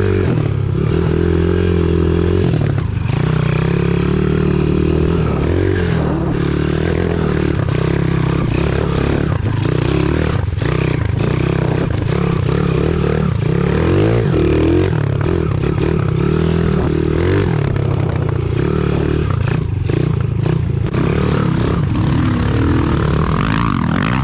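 Pit bike's small single-cylinder engine running under load, its revs rising and falling as it is ridden. Clattering and scraping from the bike over rough ground are mixed in.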